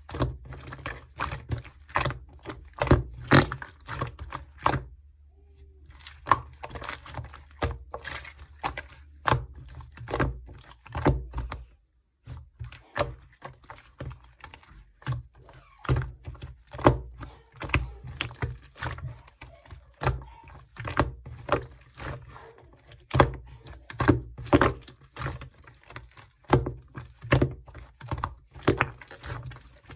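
Clear slime being squeezed and kneaded by hand while small charms are mixed in, giving a run of irregular sticky clicks and pops, with brief pauses about five seconds in and near twelve seconds.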